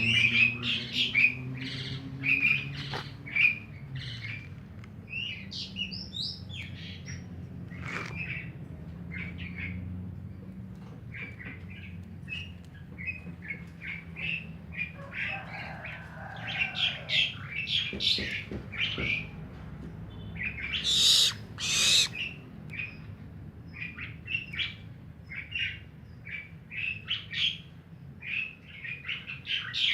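Barn owl calling: many short, high chirps in quick runs, with two harsh hissing screeches about two-thirds of the way through.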